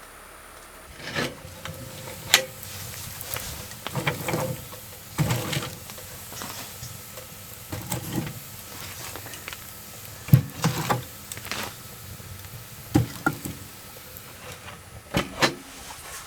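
Handling noises: irregular sharp knocks and clicks with rustling in between. The loudest knocks come about 2, 10 and 13 seconds in.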